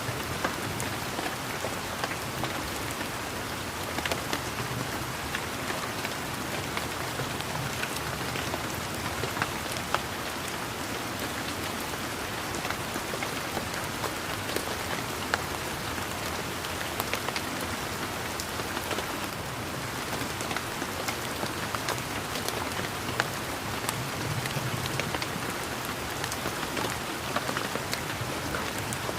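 Steady rain falling, a continuous patter with many separate drops ticking sharply throughout.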